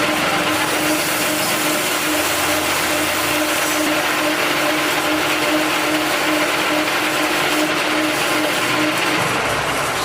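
A motor-driven machine running steadily: a constant hum with dense noise over it, easing off slightly near the end.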